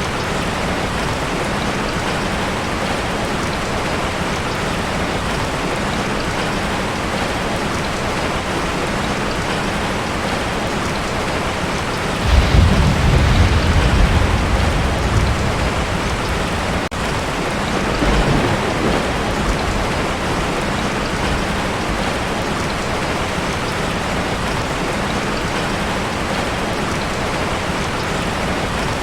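Heavy rain drumming steadily on a tin roof. About twelve seconds in a loud, low thunder rumble rolls in and fades over a few seconds, followed by a smaller rumble a few seconds later.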